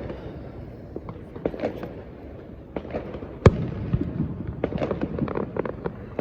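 Fireworks going off: scattered pops and crackles, with one sharp, loud bang about halfway through.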